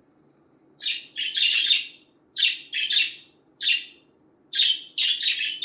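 Budgerigars chirping and chattering in a run of short, high, scratchy bursts, starting about a second in.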